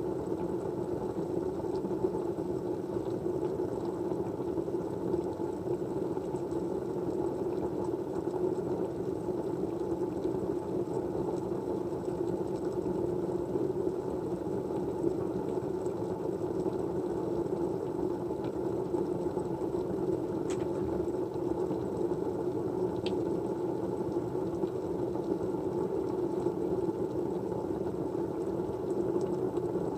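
Steady white-noise background, an even rushing hiss with most of its weight in the low-middle range, with two faint clicks about two-thirds of the way through.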